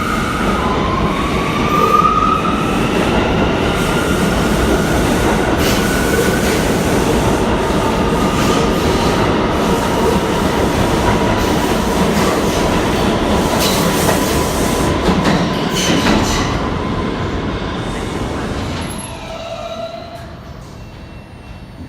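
New York City subway train running through the station with a high squealing tone that rises at first and then holds, and a few sharp clacks over the rails. It fades away over the last few seconds as the train leaves.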